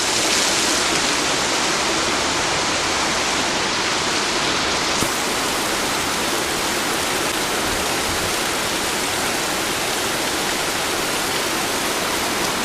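A rain-swollen river in flood, rushing loudly and steadily, under torrential rain.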